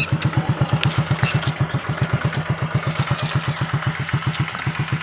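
A small engine idling, with an even low chugging of about ten beats a second and some light clatter over it.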